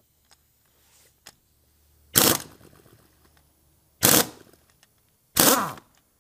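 Pneumatic impact wrench with a 15 mm socket hammering in three short bursts, about two seconds apart, to break loose the alternator freewheel pulley on a 1.9 TDI.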